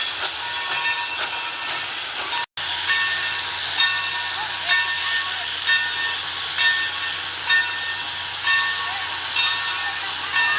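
Steam excursion train running: a steady rushing hiss with a short ringing clack repeating about once a second. A brief break to silence comes about a quarter of the way through.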